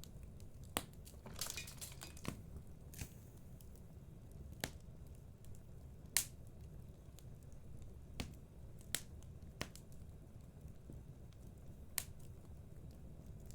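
Wood fire crackling in a fireplace: about ten sharp, irregular pops and snaps over a low, steady rumble of the burning.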